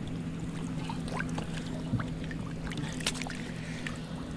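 Light splashes and trickles of shallow water as hands work through it, with scattered small clicks, over a steady low hum.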